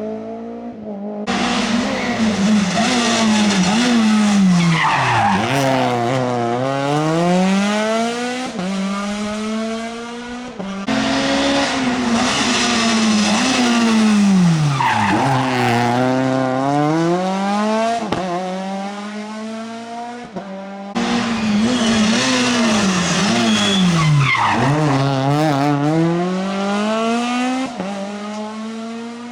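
Rally cars' engines at high revs in three short cut-together clips; in each, the engine note falls as the car slows for a corner, then climbs again as it accelerates away.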